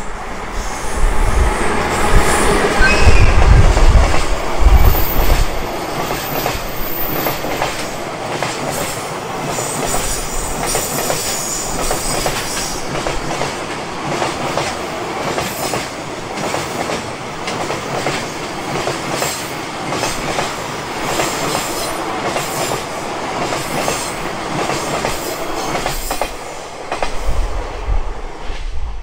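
A freight train passing close by: a JR Freight DF200 diesel locomotive's engine is loudest in the first few seconds. Then a long string of container wagons rolls by with a steady rumble and rapid clickety-clack of wheels over rail joints, falling away near the end as the train clears.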